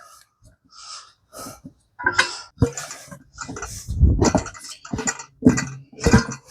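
Irregular metal clanks, scrapes and short rings of tire irons and a manual tire changer working a lubed tire over the rim of a mini bike wheel.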